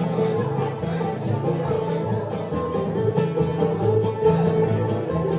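Live bluegrass band playing an instrumental passage: banjo and guitar picking over a bass line.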